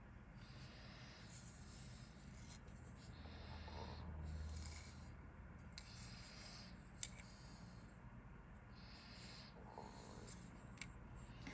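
Faint rustling and rubbing, like paper or plastic being handled, with a sharp click about seven seconds in.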